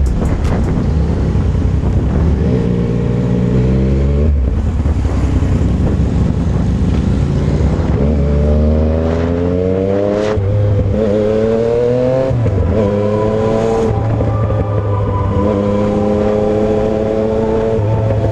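Motorcycle engine accelerating through the gears: its pitch rises in several pulls, each broken off by a gear change, then holds steady near the end. Heavy wind rumble on the microphone of a moving bike runs underneath.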